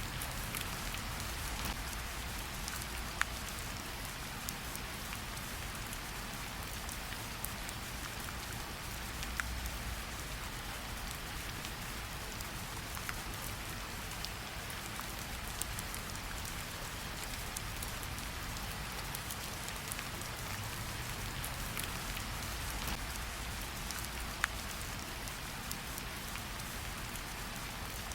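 Steady light rain pattering on tree leaves, with scattered individual drops ticking sharply now and then.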